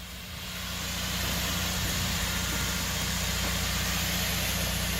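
A truck engine running steadily, with a broad rushing hiss that builds over the first second and then holds.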